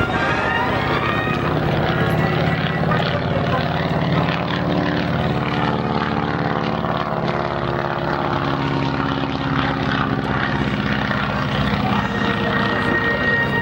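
Boeing Stearman biplane's radial engine and propeller running steadily in flight, with its pitch drifting slightly.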